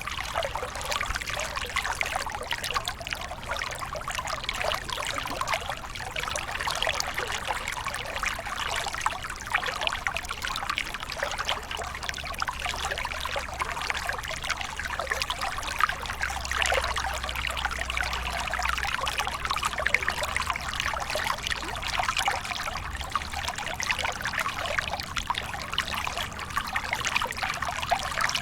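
Water from a small waterfall pouring and splashing steadily, a continuous rush with a fine, crackling splash texture.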